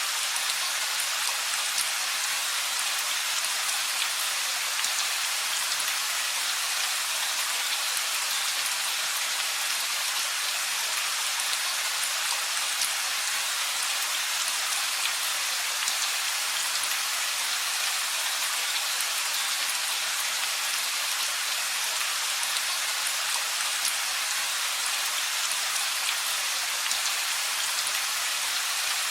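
Steady rain falling, an even hiss with faint scattered drop ticks throughout and no thunder.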